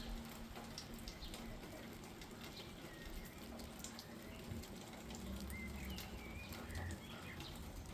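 Light rain falling on garden plants, drops ticking irregularly, with a bird chirping a few times in the background.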